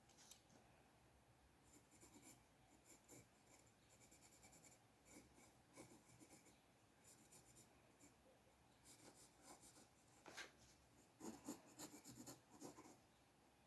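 Faint scratching of a drawing tool on paper in short, repeated strokes, busier and louder about eleven seconds in.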